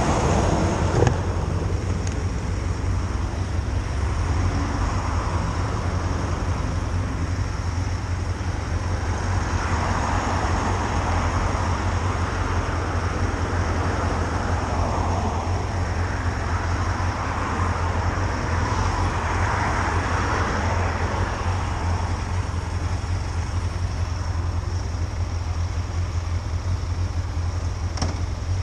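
Motorcycle on the move: a steady low rumble of engine and wind on the microphone, with a rushing noise that swells and fades twice, about ten and twenty seconds in.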